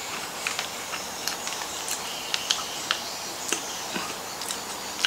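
Mouth chewing Milo Nuggets with the lips closed: irregular small clicks every half second or so over a steady hiss.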